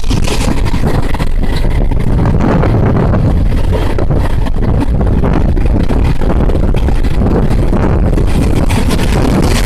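Steady rumble of the 12082 Jan Shatabdi Express running along the line, heard from on board, with wind buffeting the microphone.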